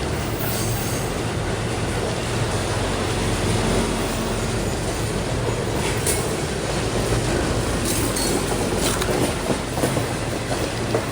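Norfolk Southern freight train rolling steadily past, its wheels clicking over the rail joints under a continuous low rumble. Brief high-pitched wheel squeals cut in a few times, about six seconds in and again around nine seconds.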